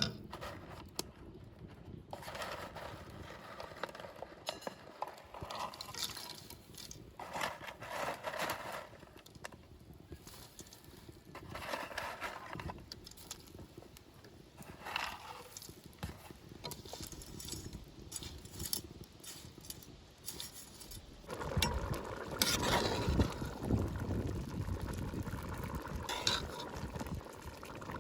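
Cooking sounds: utensils clinking and scraping against pots and dishes in short irregular bursts, growing busier and louder about three-quarters of the way through.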